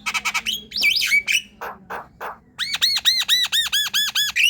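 Javan myna chattering song: a jumble of varied, buzzy notes and harsh rasps, then a fast run of about a dozen identical arched whistles, about seven a second.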